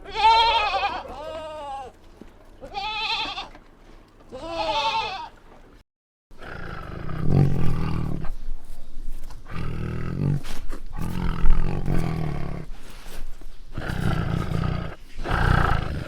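Farm animals calling. First there are three separate high calls that arch up and down in pitch. After a short break come about five longer, low, rough calls.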